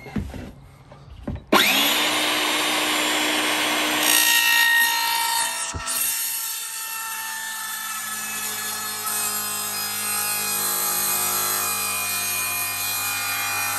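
Power tool cutting into wood, starting abruptly about a second and a half in and running steadily, with a brief break partway through.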